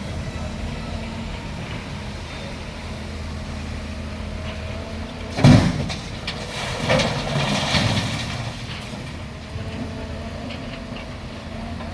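Volvo excavator's diesel engine running steadily, with a loud clank about halfway through followed by a couple of seconds of rattling.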